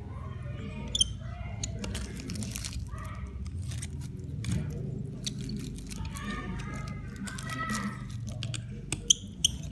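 Small sharp clicks and taps of tools and parts being handled during iPhone 7 disassembly, a few louder clicks about a second in and twice near the end, over a low steady hum and faint background voices.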